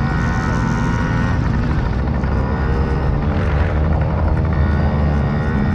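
Engine of a small children's dirt bike running steadily under way.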